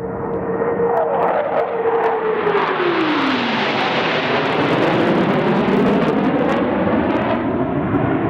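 Jet engines of Blue Angels F/A-18 Hornets making a pass: a steady whine drops sharply in pitch about three seconds in as a jet goes by, then the roar of the engines swells and stays loud.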